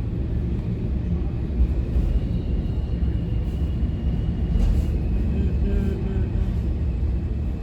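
Steady low rumble of subway station ambience, with a faint thin high whine through the middle.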